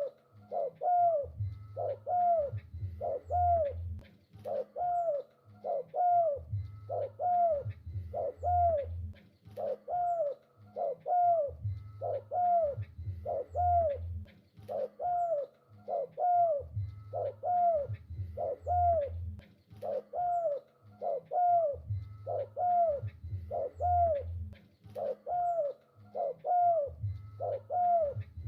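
Spotted dove cooing over and over, a short arched note repeating about every two-thirds of a second, with deeper low pulses coming in groups every two to three seconds.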